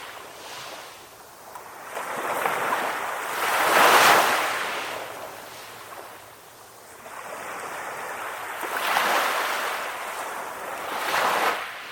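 Ocean waves breaking and washing up the shore, the surf hiss swelling and ebbing; the biggest wave breaks about four seconds in, with smaller ones later.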